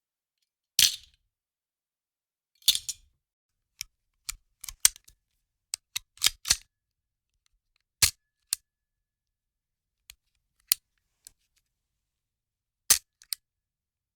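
Sharp metallic clicks and clacks of a gun's mechanism being handled, heard singly and in quick clusters at irregular intervals over silence, with no shot fired.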